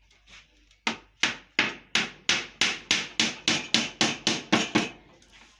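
A hammer striking hardwood iroko boards as they are nailed together into a beehive box. About fourteen sharp blows start about a second in, roughly three a second and quickening slightly.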